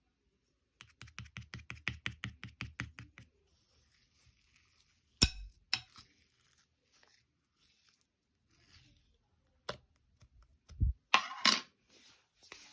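Opaque blue slime being handled by hand. First comes a quick, even run of small clicks and pops, then two sharp snaps, then soft crackling. Near the end there is a louder crackly burst of tearing sounds as the slime is stretched and folded.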